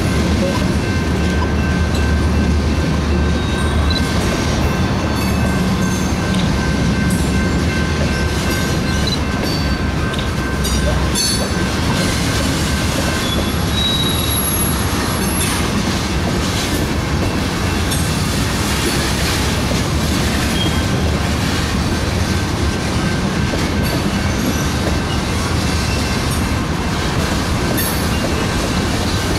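Freight train's cars, gondolas then tank cars, rolling slowly past close by with a continuous rumble and irregular clanks from the wheels over the rails. Thin, steady wheel squeal rings above it. The low rumble is heaviest in the first ten seconds or so.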